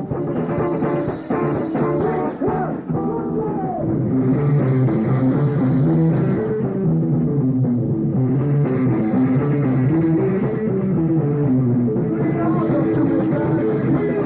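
A rock band playing live, with electric guitar and drum kit, getting a little louder about four seconds in.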